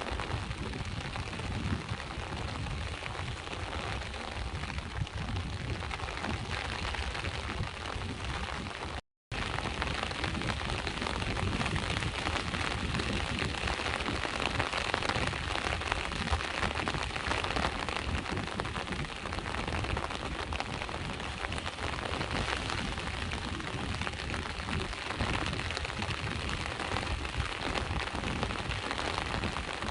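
Steady rain with sea waves, a dense even hiss over a low rumble, broken by a moment of dead silence about nine seconds in.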